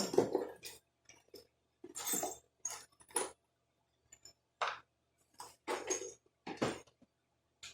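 Loose metal hardware clinking and clattering in short, irregular bursts, as of someone rummaging through nuts and bolts to find one that fits.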